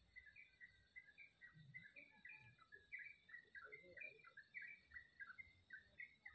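Faint songbird chatter: a quick, unbroken run of short chirping notes.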